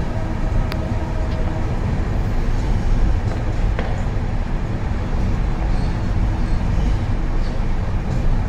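Rajdhani Express passenger train running along the track: a steady, even rumble, with a brief click a little under a second in.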